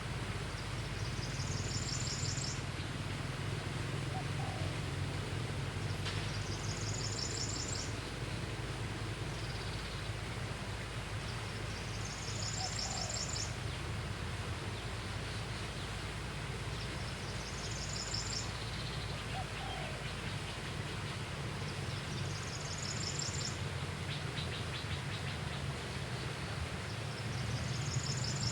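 A bird repeating a short, high, buzzy trill about every five seconds, over a steady low rumble.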